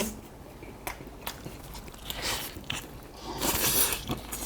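A person chewing and biting into roast duck leg meat, with scattered short clicks and a few brief wet, noisy smacks.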